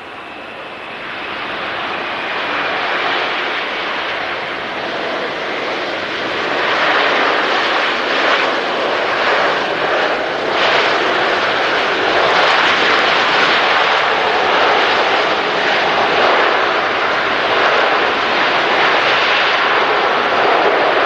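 Large jet airliner on landing approach, its engine roar building to a loud, steady rumble as it passes. A faint high whine falls in pitch over the first few seconds.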